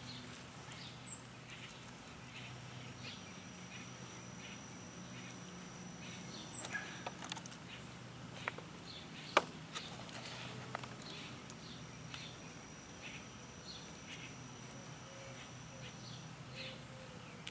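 Soft rustling and scraping of potting soil being handled and scooped into a fabric grow bag, with a sharp click about nine seconds in. A thin, steady high tone comes and goes twice behind it.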